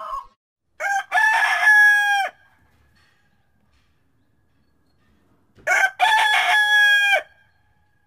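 A rooster crowing twice, about a second in and again about five and a half seconds in. Each crow is a short broken opening followed by a long held note that drops away at the end. A last cluck of an earlier series sounds at the very start.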